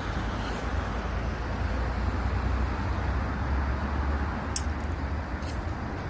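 Steady rumble of passing vehicles, deep and noisy, with a few sharp clicks in the second half.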